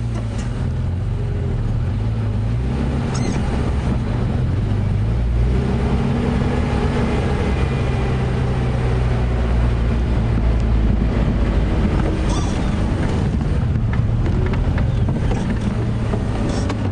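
Safari game-drive vehicle's engine running steadily as it drives along a bush track, its pitch rising and falling a little, with a few short knocks or rattles.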